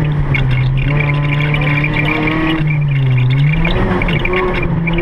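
Car engine running steadily, heard from inside the car. Its pitch dips and rises again about three seconds in.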